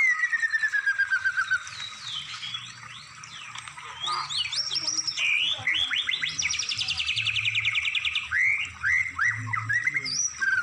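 Songbird song of the kind used as masteran tutoring material for cage birds. It opens with a falling series of quick whistled notes, moves through varied chirps, then a very fast, even trill for over a second, and ends with short rising chirps.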